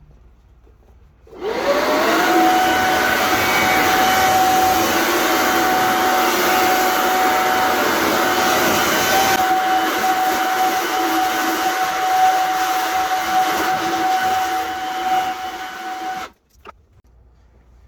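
Leaf blower switched on about a second and a half in, its whine rising quickly to a steady pitch, running at a constant speed, then cut off suddenly near the end.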